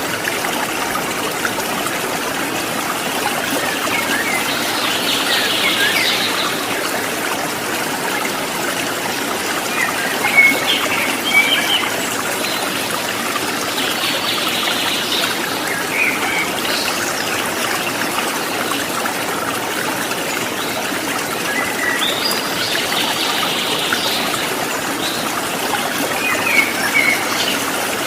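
Water trickling steadily, with birds chirping in short bouts every few seconds over it.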